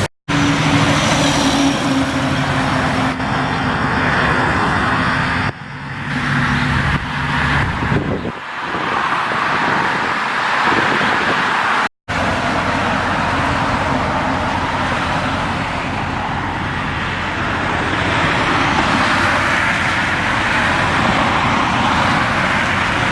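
Trucks and traffic driving past on a road: an engine running for the first several seconds, then mostly steady tyre and road noise. The sound drops out sharply twice, just after the start and about halfway through.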